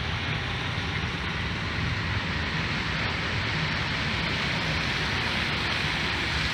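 Steady hiss of rain with a low vehicle rumble underneath.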